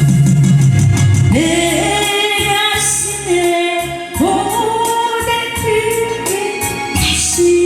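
A woman singing a Korean pop song, holding long notes over a backing track with bass and a steady beat.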